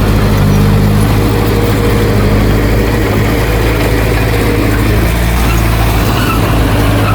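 Heavy diesel engine of earthmoving machinery running steadily with a deep rumble, its note shifting slightly midway.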